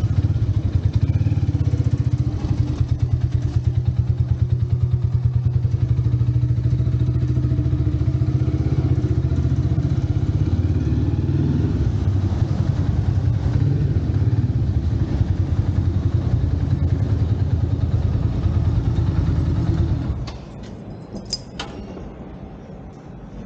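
Motorcycle engine running on the move, a steady low pulsing drone that drops off sharply about twenty seconds in, leaving quieter street traffic sound.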